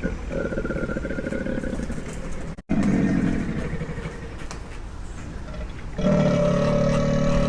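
Low, drawn-out animal calls in short cut-together clips, the loudest one starting about six seconds in.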